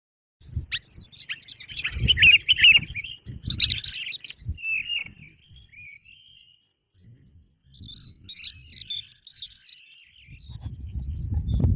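Birds chirping in quick, jumbled runs of calls, loudest about two to four seconds in, with a second, fainter run later on. A low rumble sits underneath the calls.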